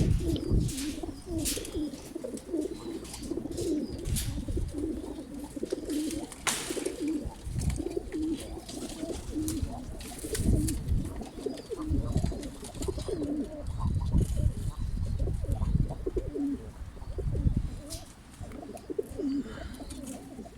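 Domestic pigeons cooing, many overlapping coos one after another, with scattered low thumps and a few sharp clicks among them.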